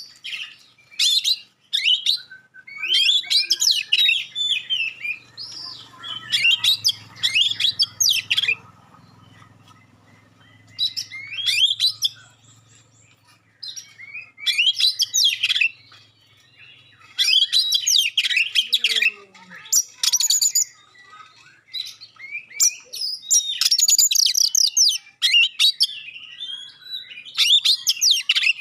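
Oriental magpie-robin (kacer) singing in loud bursts of rapid, sharp, high-pitched phrases, the piercing 'tembakan' song, with pauses of a second or two between bursts.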